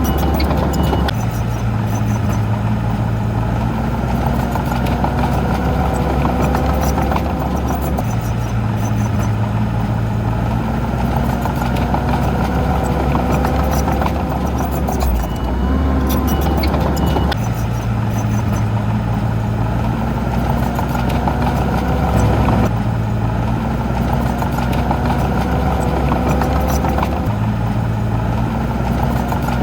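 Heavy diesel engine of earthmoving machinery running under changing load, its pitch shifting in steps every few seconds.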